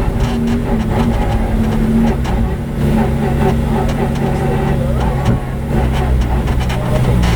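Lamborghini Huracán race car's V10 engine running at fairly steady revs, its pitch stepping down about two to three seconds in.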